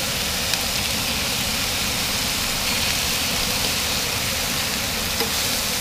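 Catfish fillets frying in butter in a hot pan: a steady sizzle, with a couple of light taps, one near the start and one near the end.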